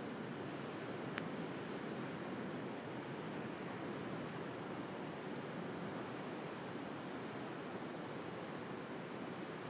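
Steady wash of sea surf with a wood bonfire crackling over it: faint scattered crackles and one sharp pop about a second in.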